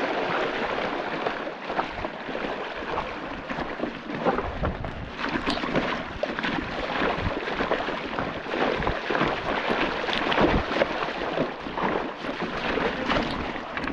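Mountain bike riding over rough trail: a steady rush of wind noise on the microphone with frequent small clicks and knocks from the tyres and frame over rocks and roots.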